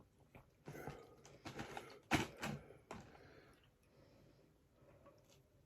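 Scattered small clicks and knocks of things being handled at a table, with one sharper knock about two seconds in, quieter in the second half.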